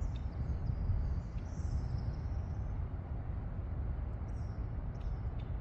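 A few faint, short high-pitched bird chirps over a steady low rumble.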